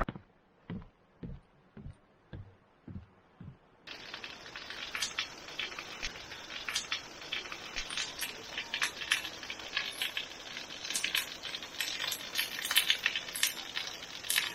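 Footsteps on a trail: soft regular steps about twice a second, then after about four seconds a change to denser, irregular crackling and pattering with sharp clicks.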